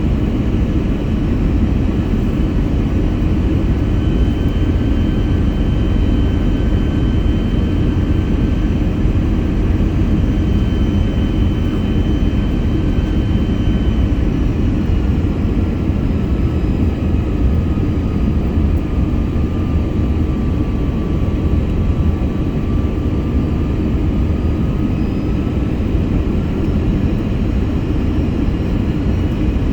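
Steady jet engine and airflow noise inside an Airbus A321's cabin in flight: a low rumble and hiss with faint whining tones, one of which drops slightly in pitch past the middle.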